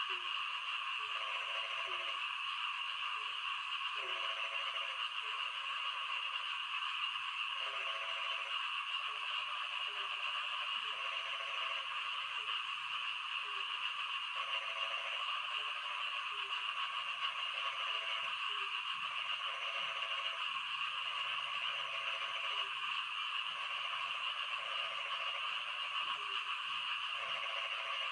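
Frogs calling in rain: short, low croaking calls repeat every second or two over a steady hiss of falling rain.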